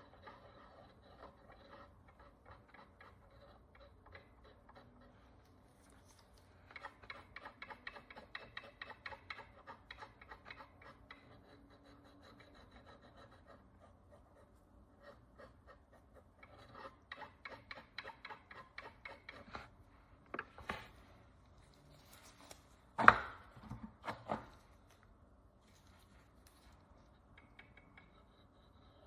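Hand tool scraping the crust off an ancient bronze coin in two runs of quick, even strokes. Near the end come three sharp knocks, the loudest about two-thirds of the way through.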